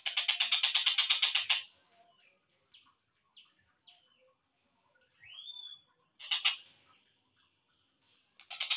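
Slowed-down recording of a tengkek buto (collared kingfisher) calling. A rapid harsh series of about eight notes a second lasts a second and a half. Scattered short chirps and a single rising note follow, with a brief burst of notes at about six and a half seconds, and the rapid series starts again near the end.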